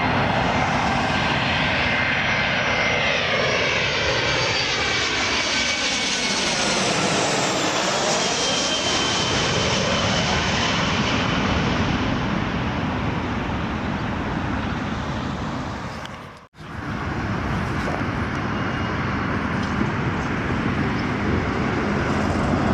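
Twin-engine jet airliner passing low overhead on short final, a steady turbofan rumble with a whine whose pitch slides down as it goes over, about seven or eight seconds in. The sound drops out for a moment about sixteen seconds in, then steady engine noise carries on.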